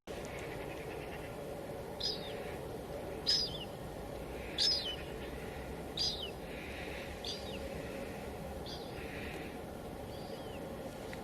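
A bird repeating a short, high call that falls in pitch, about once every second and a half, over a steady bed of white noise. The calls are fainter near the end.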